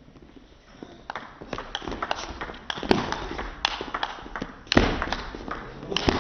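Table tennis rally: the ball clicking back and forth off the rackets and the table in quick, uneven strokes, with one heavier thud about three-quarters of the way through.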